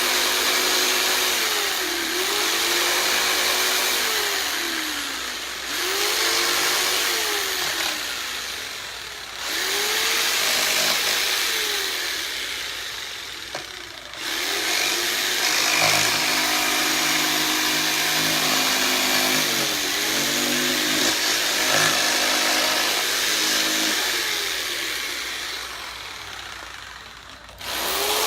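Corded electric jigsaw cutting a wooden door hanger blank, the motor speeding up and slowing down again and again as the trigger is eased. The cutting dips briefly about four times between passes.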